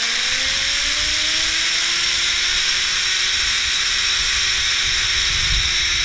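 Zip line trolley pulleys rolling fast along the steel cable: a steady whirring hum over a loud rushing hiss. The hum climbs in pitch in the first second or two as the rider picks up speed, then begins to drop near the end as the trolley slows.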